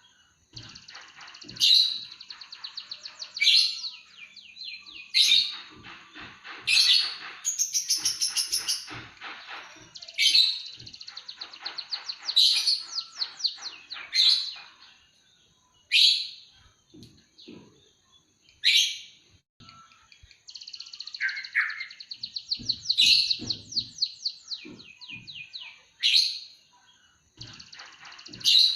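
Emprit kaji (white-headed munia) singing a canary-like song of rapid trills and sharp rising chirps, repeated every second or two, over a faint steady high tone.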